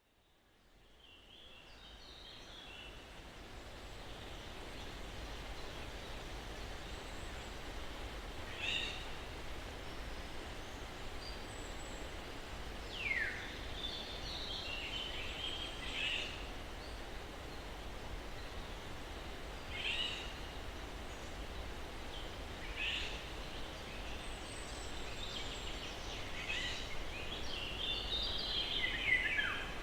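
Steady soft breeze through trees, fading in from silence over the first few seconds. Scattered short songbird chirps and calls sound over it, including a couple of falling whistles.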